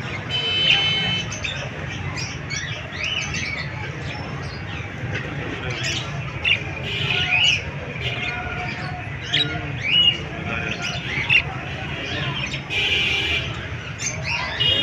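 Pet parrots chirping and squawking in short, irregular calls, with a few harsher squawks, over a steady low hum.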